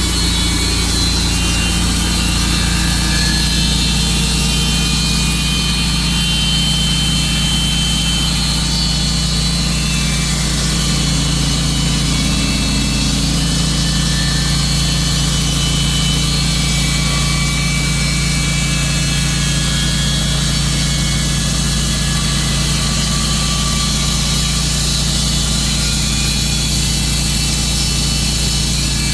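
Tru-Cut sawmill running steadily under its engine, the blade sawing lengthwise through a large silver maple log.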